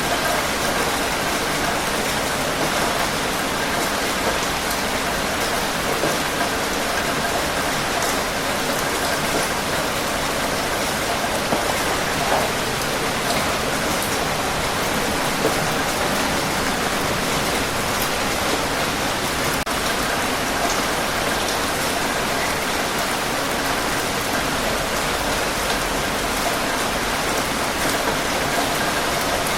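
Steady rain falling on surfaces, a dense even hiss of many drops with occasional distinct drop ticks.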